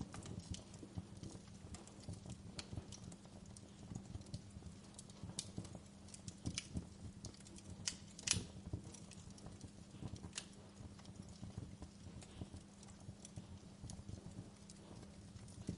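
Wood fire crackling, with irregular sharp pops and snaps over a steady low rumble of the flames; one louder pop a little past halfway.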